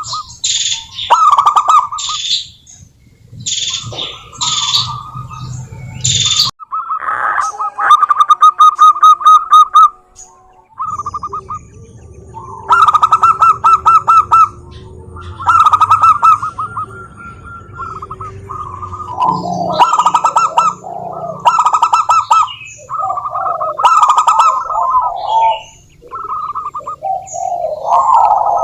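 Zebra dove (perkutut) song: repeated runs of fast staccato cooing notes, with higher chirping notes between them.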